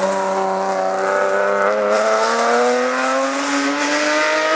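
Rally car engine running hard under load, its pitch climbing slowly and steadily as the car accelerates.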